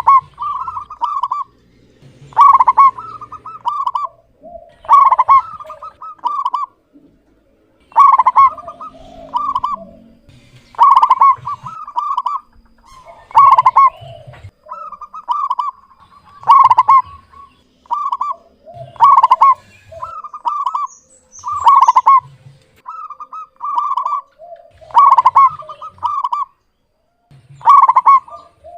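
Zebra dove (perkutut) singing its cooing song over and over: a phrase of several quick, clear coos that repeats about every three seconds.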